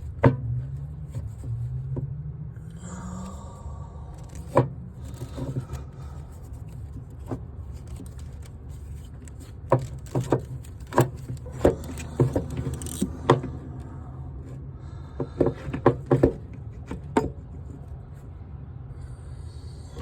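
Scattered sharp metal clinks and knocks as a starter motor and hand tools are worked into place on a Bobcat MT100 mini track loader, thickest about halfway through, over a steady low hum.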